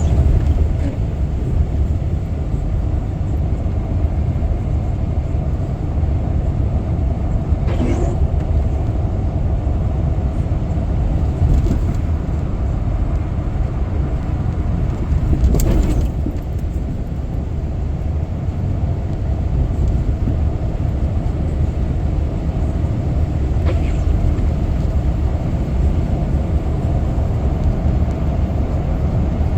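A car driving along a road: steady low engine and tyre rumble. Three brief knocks or rattles sound about 8, 15 and 24 seconds in.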